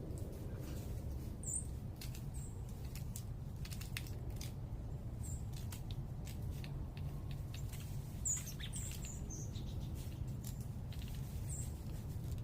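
Small birds giving short, high chip notes every second or two, with a quick cluster near the end, over a steady low background rumble. Faint ticks of water dripping from melting icicles.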